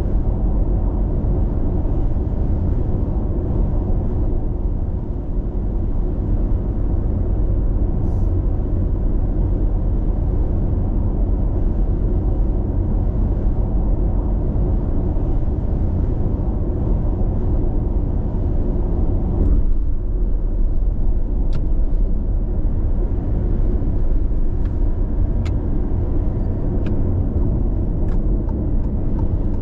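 Steady road and tyre noise of a car cruising on an expressway, heard from inside the cabin, a deep rumble with no speech. The noise shifts slightly about two-thirds of the way through, and a few faint short clicks follow near the end.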